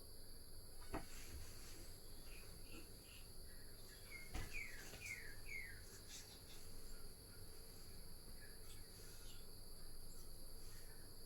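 Crickets chirring steadily in the background at a low level. There are a couple of faint sharp clicks, and a quick run of four short falling chirps near the middle.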